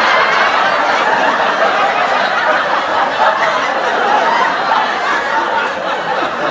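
Several people laughing continuously at a steady level.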